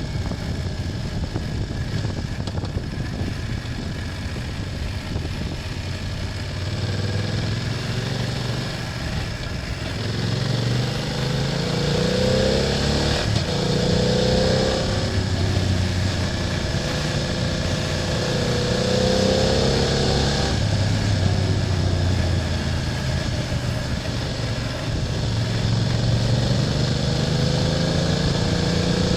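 BMW F800GS parallel-twin engine running under way, over steady wind and road noise. From about ten seconds in it pulls harder and gets louder, its pitch rising and falling several times.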